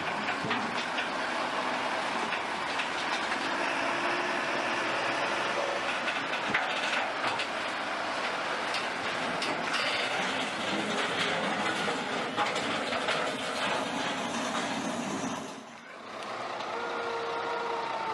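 Steady vehicle and road noise heard from inside a vehicle, with scattered knocks. It dips briefly near the end, then a few steady tones sound together.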